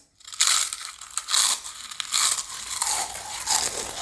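Close-up crunching of spicy Doritos tortilla chips being bitten and chewed: an irregular run of crisp crunches that starts about half a second in.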